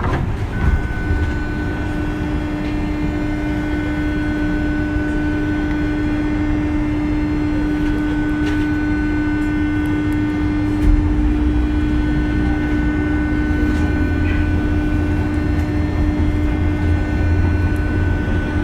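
JR West 201 series electric train running, heard inside the car: a continuous rumble of wheels on rail with a steady hum from the thyristor chopper control. The rumble grows heavier about halfway through.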